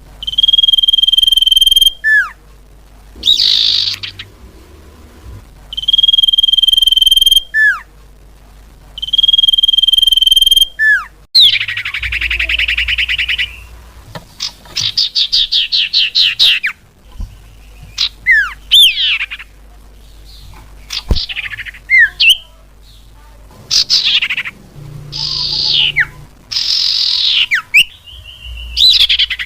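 Common iora (cipoh) song from a bird-luring recording: three long steady whistles, each ending in a quick falling note, then a fast buzzy trill, a run of rapid repeated notes, and a series of short downslurred whistles.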